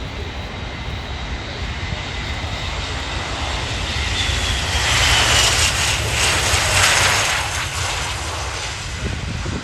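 Airbus A400M's four TP400 turboprop engines running as the aircraft comes in to land. The sound swells to its loudest a few seconds in, with a high whine falling in pitch as it passes, then eases off near the end.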